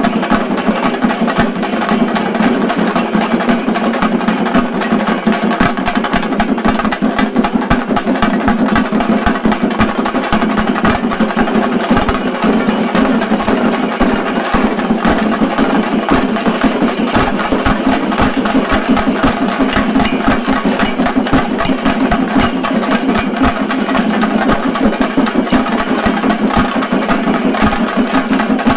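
Chenda drum ensemble playing shinkarimelam: dense, fast, unbroken drumming at a steady loudness.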